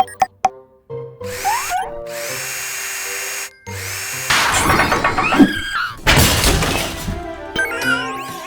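Cartoon sound effects over background music: a few clicks, a steady rushing noise with rising whistles, then louder clattering, crash-like bursts. Music alone near the end.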